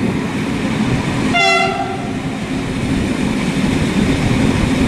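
Steady rumble of a moving vehicle, with one short horn-like blast about a second and a half in.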